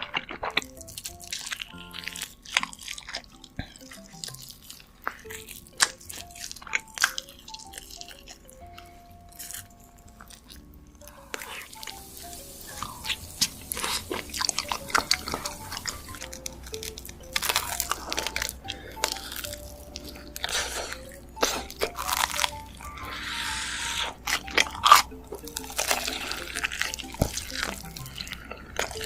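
Close-miked eating sounds: crisp crunches, bites and wet chewing, denser in the second half, over soft background music with short plucked notes.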